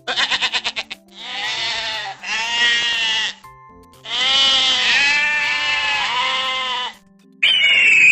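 Bleating: a short rapid stuttering bleat, then three long wavering bleats, the last about three seconds long. Near the end a different, high falling cry begins.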